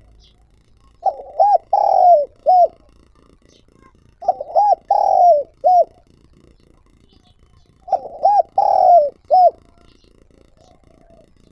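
Spotted dove cooing: three phrases about three seconds apart, each of four arched notes, two short, then a longer one, then a short one. Faint high chirps of small birds sound between and behind the phrases.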